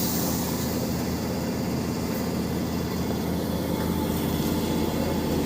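Speed Queen washing machine running, a steady low mechanical rumble.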